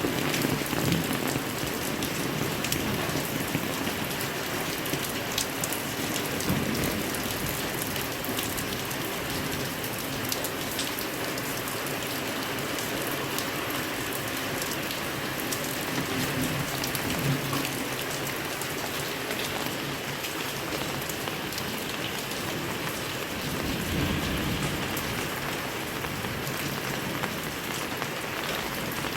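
Heavy rain falling steadily, with single drops ticking sharply close by through the constant hiss of the downpour.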